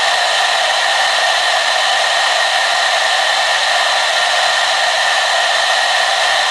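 Hair dryer running continuously, a steady airy rushing whir with a constant hum in it and no change in speed.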